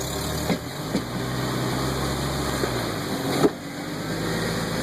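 An engine running steadily, with a few sharp clicks or knocks over it, the loudest about three and a half seconds in.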